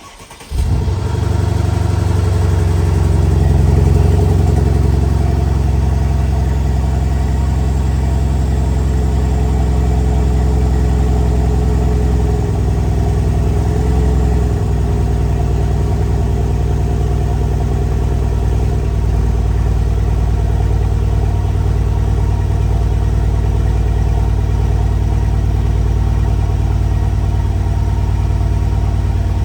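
A 2013 Mercedes-Benz SL550's twin-turbo V8 cold-starting: it fires about half a second in and swells to a high cold idle over the first few seconds. It then settles into a steady fast idle.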